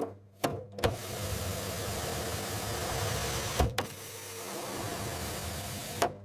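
Steady hum of machinery running, broken by a few sharp clunks and brief dropouts.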